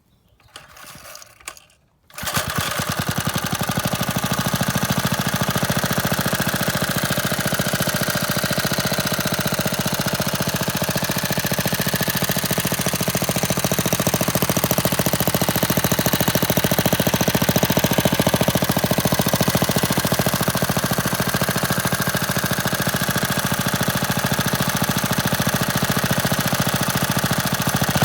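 1974 3 HP Briggs and Stratton single-cylinder four-stroke engine running steadily, starting abruptly about two seconds in after a brief low rustle.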